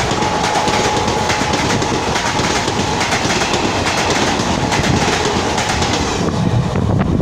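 A passenger train passing close at speed, its wheels clattering rapidly over the rail joints, with a thin steady whine over the first few seconds. The rush eases about six seconds in as the train's tail goes by.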